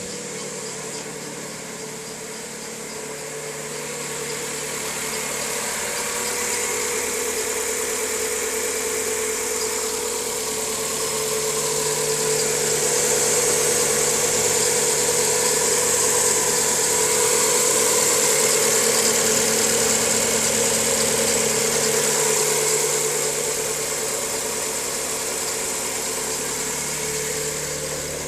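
Volkswagen Gol G6 engine idling, with a steady whining noise on top of the running engine that grows louder through the middle and eases off near the end. The noise was at first put down by the dealer to an over-stiff alternator belt, and was finally traced to a defective timing belt.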